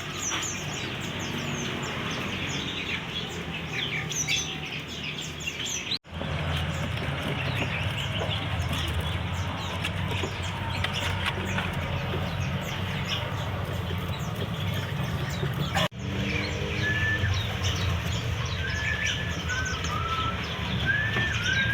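Many caged songbirds chirping and calling at once, a dense overlapping chatter, with clearer whistled notes rising and falling near the end. The sound cuts out for an instant twice.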